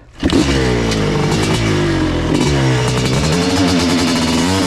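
1986 Kawasaki KX500's 500cc single-cylinder two-stroke engine running loud through an FMF exhaust pipe, its revs dipping and rising. It comes in abruptly just after the start.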